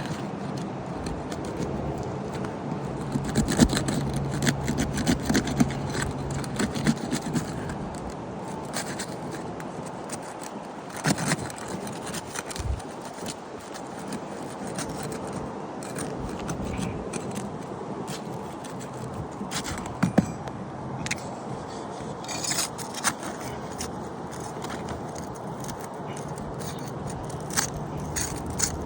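A metal roof snake working under asphalt shingles, scraping and clicking irregularly as it breaks the seal strips and frees the nails so the shingles can come out for a repair. A steady low hum runs behind it.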